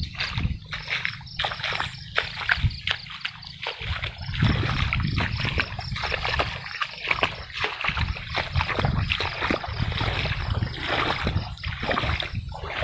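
Storm-swollen creek water rushing and splashing, with an uneven low rumble of wind buffeting the microphone.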